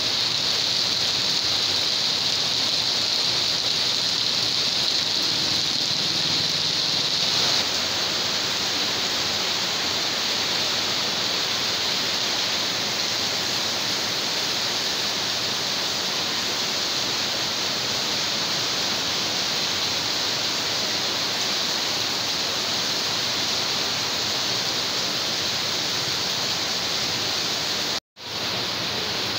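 Heavy tropical rain pouring down onto a flooded street, a steady, even hiss. It cuts out for a moment about a second before the end.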